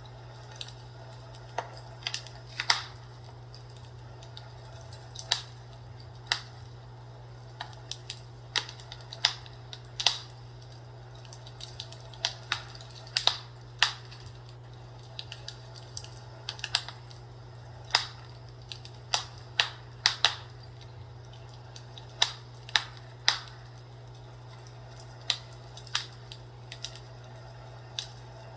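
Fireplace crackling: irregular sharp pops and snaps, a few every couple of seconds, over a steady low hum.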